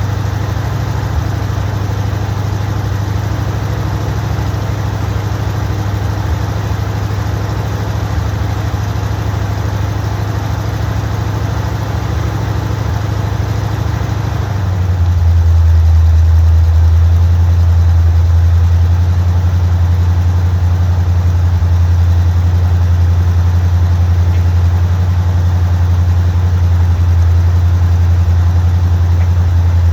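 1979 Camaro Z28's 327 V8 idling steadily after a cold start. About halfway through, the idle speed drops to a lower, slightly louder note and settles there.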